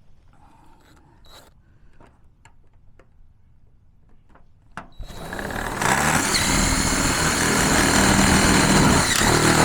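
Cordless drill driving a screw: a few light clicks and knocks, then about halfway through the drill spins up, rising in pitch, and runs steadily at full speed.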